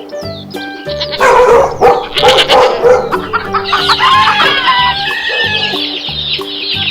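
Rooster crowing, loudest from about one to three seconds in, followed by chicken clucking, over a backing music track with a repeating bass line.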